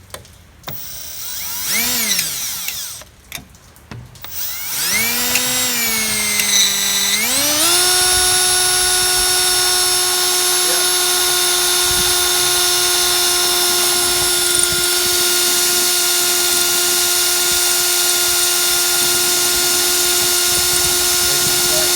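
Electric drill boring a crack-stop hole into the steel truck frame rail, to keep the crack from spreading. The motor whine speeds up and drops off twice in the first several seconds, then holds a steady speed to the end.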